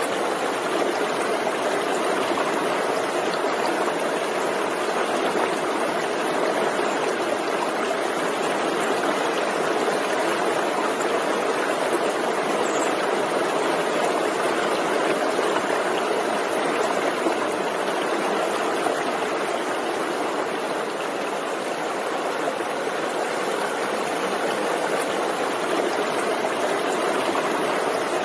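Forest stream running over rocks: a steady, even rushing and burbling of flowing water.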